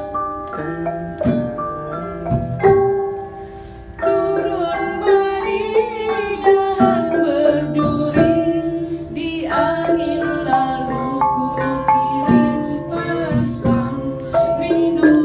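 Malay gamelan ensemble playing: bronze keyed instruments and gongs struck with mallets, many ringing notes overlapping in a steady melody. The playing thins out briefly about three seconds in, then comes back fuller.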